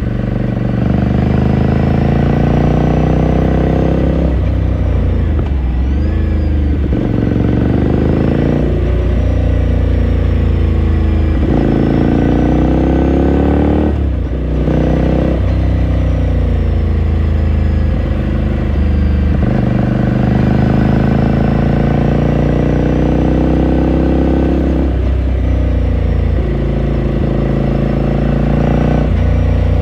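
2018 Ducati Scrambler Sixty2's air-cooled L-twin engine heard onboard through its exhaust, its pitch climbing as it accelerates and dropping back at each gear change, many times over.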